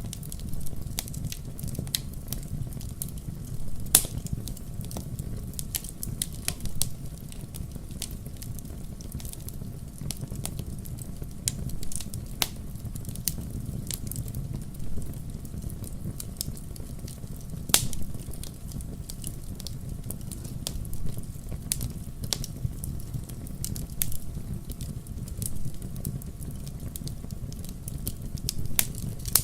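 Wood fire crackling in a fireplace: irregular sharp pops and snaps over a steady low rumble of the flames, with the loudest pops about 4 and 18 seconds in.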